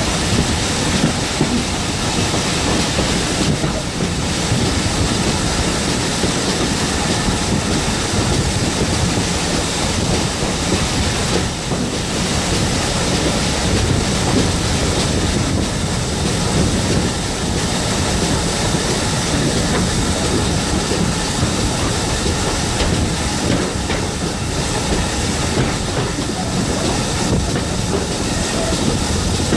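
Passenger carriage running behind a GWR 56xx class 0-6-2 steam tank locomotive: a steady, loud rumble and clatter of wheels on the track, heard at an open window with air rushing past.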